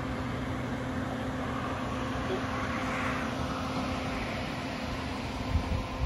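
Car engine idling with a steady hum, with two short thumps near the end.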